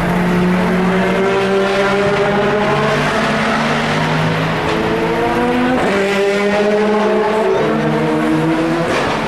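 Racing car engines accelerating hard through the gears, each engine note climbing and dropping back at every upshift, with more than one car heard at once at times.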